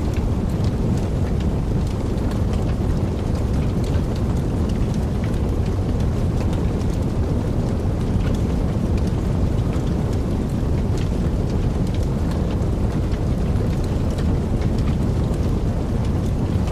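Wood fire burning in a fireplace: a steady low rumble of flames with many small crackles and pops scattered throughout.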